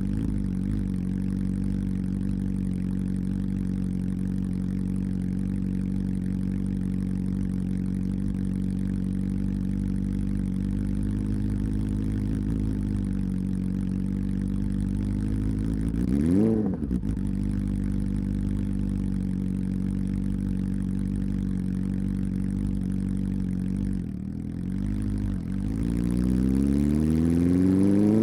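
Honda CB400 Super Four's inline-four engine idling with a deep exhaust note. It gives one quick blip of the throttle partway through, then near the end the pitch climbs steadily as the engine is revved up.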